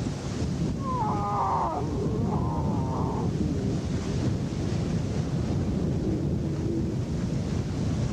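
Lion cubs mewing: two short runs of high, wavering cries, about a second in and again around two to three seconds in. Under them is a steady low rumbling noise like wind.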